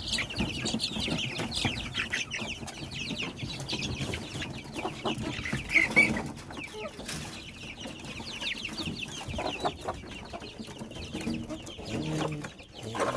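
A flock of chickens clucking and cheeping without pause, many short high calls overlapping, with one louder call about six seconds in.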